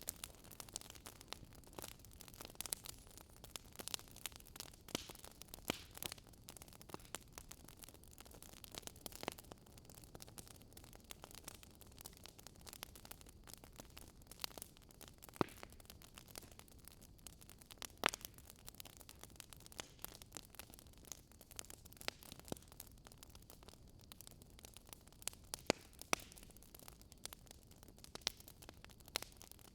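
Fire crackling in a fireplace: irregular sharp pops and snaps, some louder than others, over a faint steady hiss.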